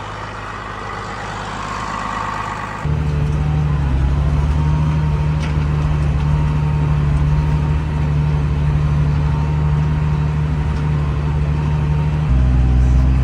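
Tractor engine running while pulling the feeder wagon. About three seconds in it revs up to a louder, heavier note, and it steps up again near the end.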